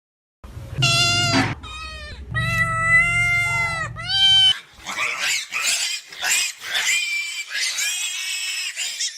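An animal calling: a few drawn-out, wavering high cries, then a run of harsher, rougher squeals.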